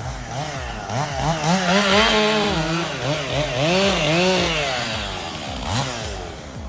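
Chainsaw engine revving up and down, its pitch rising and falling several times.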